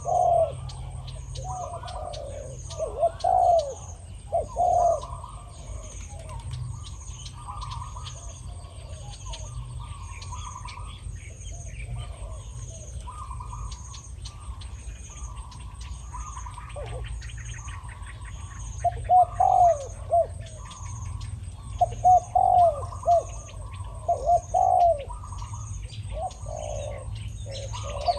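Spotted doves cooing back and forth, a decoy and a wild bird at a dove trap. One dove gives loud, low coo phrases at the start, again around three to five seconds in, and in a run from about two-thirds of the way through; a fainter, higher-pitched coo answers in between. Small birds chirp and a faint high pulse ticks steadily behind them.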